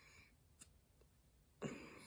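Mostly quiet, then a sudden crunch near the end: a bite into packed cornstarch, with a small click a little earlier.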